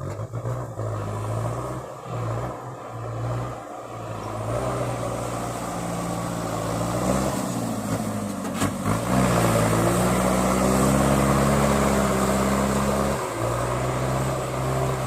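Kubota tractor's diesel engine working under load. Its pitch rises about halfway through and holds higher, with a short dip near the end.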